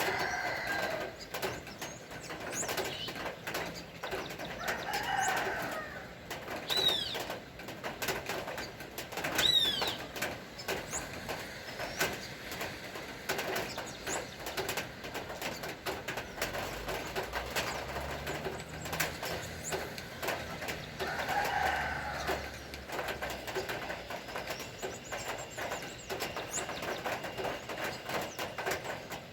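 Doves cooing a few times, with a couple of short, sharp bird chirps, over a steady patter of raindrops. A low hum passes briefly in the middle.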